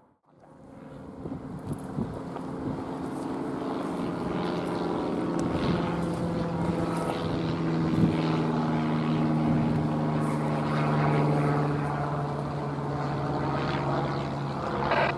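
Diesel locomotive engine running in a steady drone that grows louder over the first few seconds, its low tones shifting in pitch now and then.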